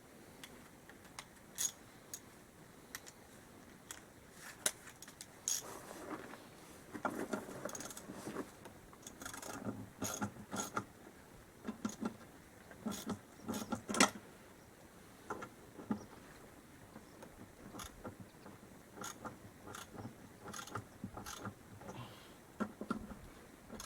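Hand tools clinking and clanking against metal parts of a quad bike being stripped down, with irregular sharp clicks and some ratcheting, busiest in the middle stretch.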